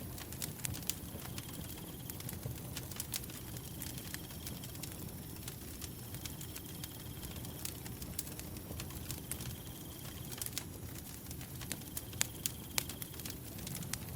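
Wood fire crackling, with irregular sharp pops and snaps over a low rumble of the flames. A cricket chirps in short high trills every few seconds.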